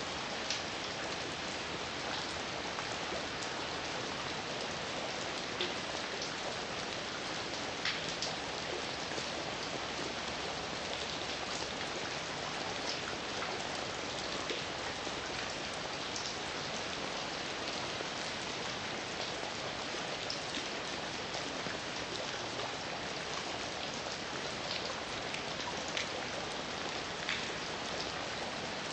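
Steady heavy rain falling, an even hiss with scattered individual drops ticking sharply on a nearby surface.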